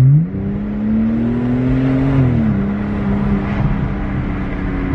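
BMW 128i's N52 straight-six with a muffler delete, heard from inside the cabin under way. The engine note climbs in pitch, drops sharply about two seconds in, holds steady, and falls away near the end.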